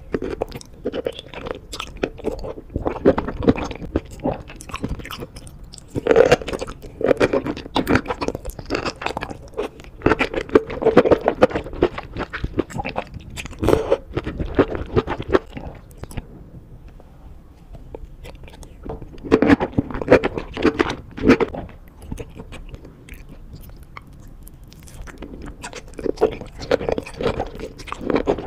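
Close-miked chewing of spicy sauce-coated enoki mushrooms: wet, crunchy bites and mouth sounds in bursts, with a few short lulls between mouthfuls.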